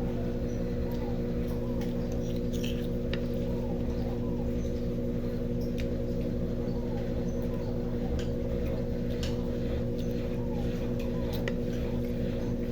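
Brastemp BWK17 washing machine spinning its drum on the spin cycle: a steady motor hum, with faint light squeaks about once a second and scattered small ticks.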